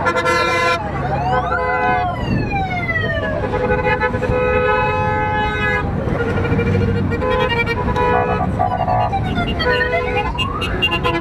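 Sirens wailing, their pitch sweeping up and down, over long honking horn blasts and the low rumble of a column of motorcycle engines.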